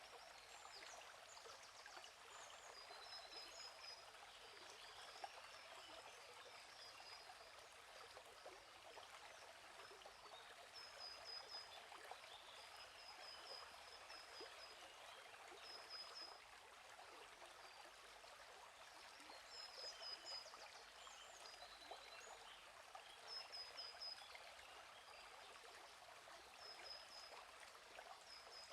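Faint, steady flow of a stream, with birds chirping short high trills every few seconds over it.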